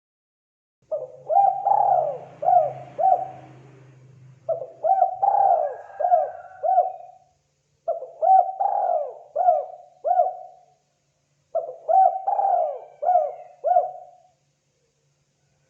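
Spotted dove (terkukur) calling: four phrases of four to five rolling coos each, repeated with short gaps between them.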